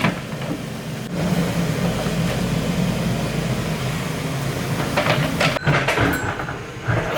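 Excavator's diesel engine running steadily, with a loud clatter about five seconds in and again near the end.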